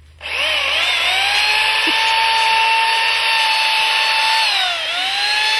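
Chainsaw starting up and running at high speed with a steady whine. Its pitch dips briefly and recovers about five seconds in.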